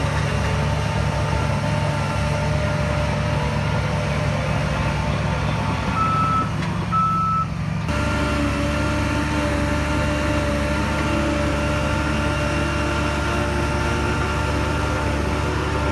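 Heavy diesel earthmoving machinery running, with a reversing alarm beeping. The sound changes abruptly about halfway through.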